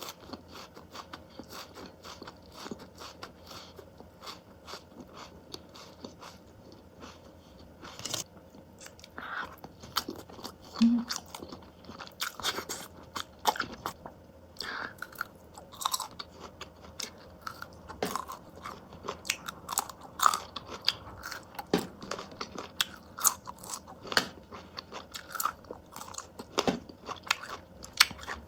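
A person biting into and chewing corn close to the microphone: many short, sharp crunchy bites and chewing sounds, coming more often in the second half.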